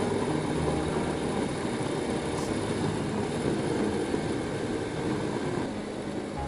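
BMW R1250GS motorcycle running steadily under way, with engine drone mixed with wind and road noise.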